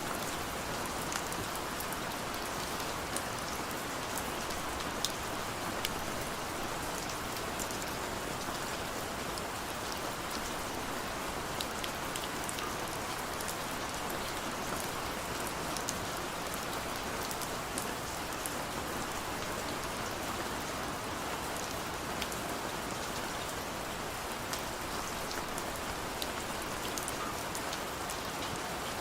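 Heavy rain falling steadily, a dense even hiss with many fine drop ticks on a hard surface.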